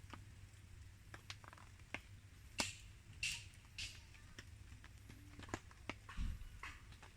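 Wood campfire crackling: scattered sharp pops and snaps at an irregular pace, three louder ones in quick succession near the middle, over a faint steady low hum.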